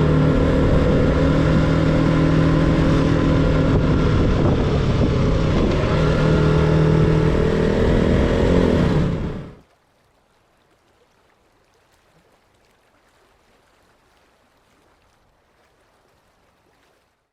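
KTM Duke motorcycle engine running on the move, its pitch shifting as it revs. It fades out quickly about nine and a half seconds in, leaving near silence.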